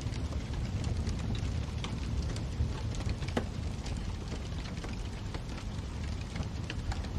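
Wood fire in a fireplace crackling: irregular sharp pops and snaps, several a second, over a steady low rumble of burning.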